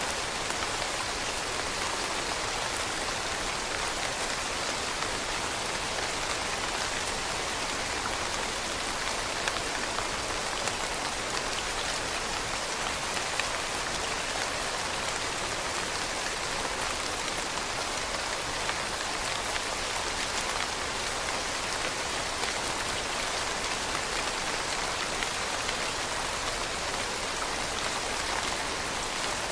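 Steady rain falling on leaves, a constant hiss with many small drop patters.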